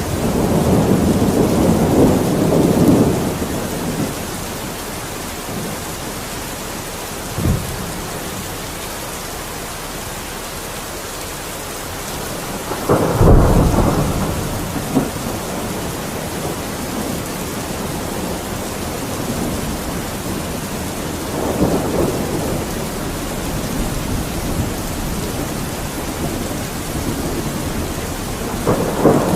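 Steady heavy rain falling, with rolling thunder rumbling several times: a long rumble at the start, a short sharp crack about seven seconds in, the loudest peal about halfway through, and softer rolls later.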